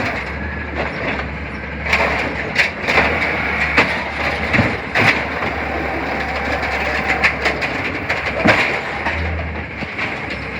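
CNG Peterbilt 320 garbage truck with an Amrep automated side-loader body running at work, its engine drone steady under a series of sharp metallic clanks and knocks.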